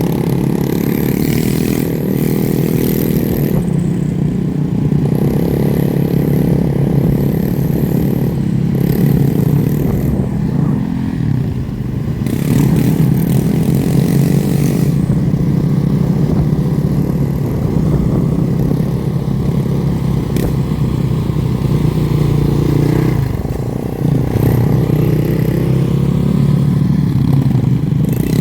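Motorcycle and dirt bike engines running and revving continuously, their pitch rising and falling.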